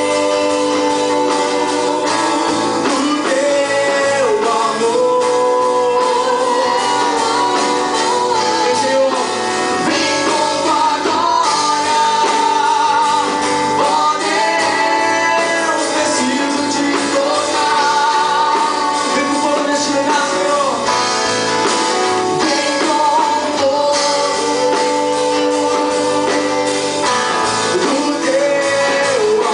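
Live gospel band performance with singing over guitar and band accompaniment, heard in a large hall.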